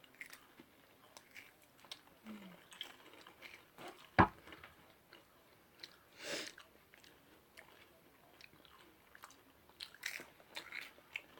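People crunching and chewing Goldfish Colours crackers: scattered small crunches and mouth sounds, with one sharp click about four seconds in.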